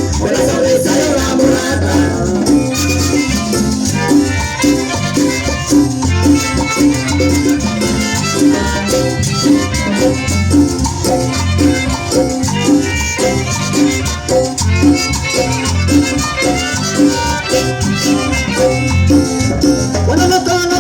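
Chanchona band playing Latin dance music live, with a steady, regular bass beat under the melody.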